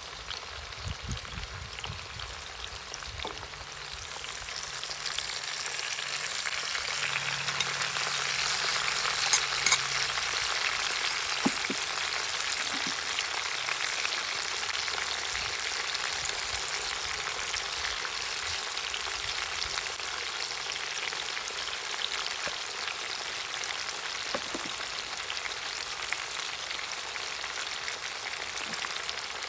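Food sizzling in hot oil in a kazan over a campfire: a steady frying hiss that grows louder about four seconds in, with a few knocks near the start and some sharp pops in the middle.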